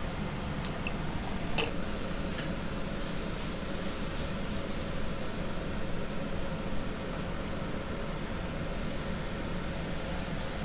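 Sliced vegetables sizzling in a hot wok as they are stir-fried, with a few light clicks in the first couple of seconds.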